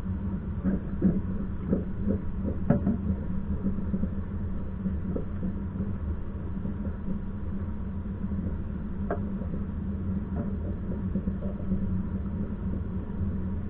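A passenger train running, heard from on board as a steady low rumble, with a few short clicks and knocks in the first few seconds and a couple more later on.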